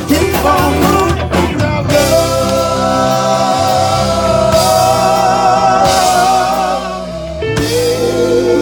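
Live rock band playing with a singer and drum kit. About two seconds in, the drums drop back and a long, wavering note is held until near the end, when the drums come back in.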